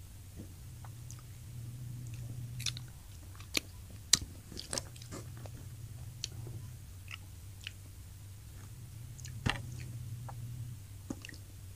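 Close-miked chewing and biting of crispy fried tilapia: scattered sharp crunches and wet mouth clicks, the loudest about four seconds in and another about nine and a half seconds in. A steady low hum runs underneath.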